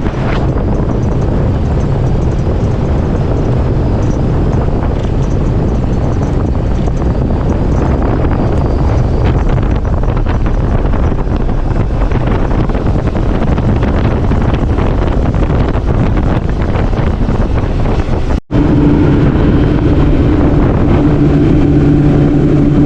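Boat's outboard motor running at speed, with wind buffeting the microphone. A brief dropout comes about three-quarters of the way through; after it a steady, even engine hum stands out more clearly.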